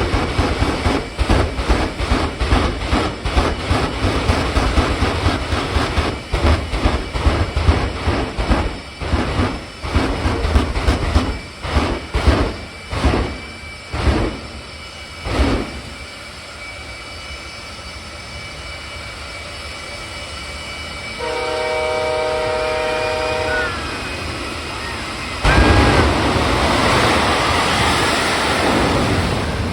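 Hellfire jet semi truck letting off a rapid run of loud pops, several a second, that slow down and stop about halfway through. Then a horn blows for about two seconds. Near the end a loud, steady jet roar starts suddenly.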